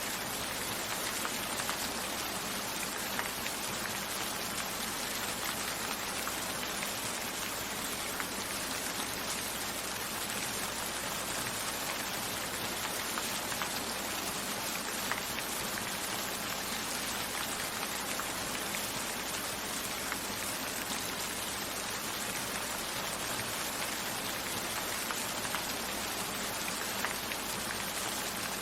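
Steady rain falling, an even hiss with many scattered drop ticks. Small sharper taps come here and there throughout.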